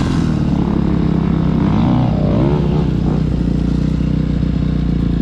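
Dirt bike engine running under changing throttle while riding, its pitch dropping and rising about two to three seconds in.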